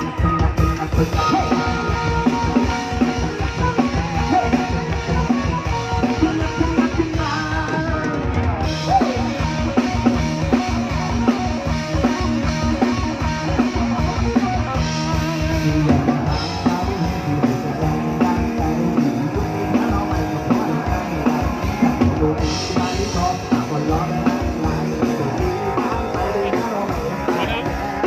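Live band music with drum kit and electric guitar, a fast steady beat with no clear singing.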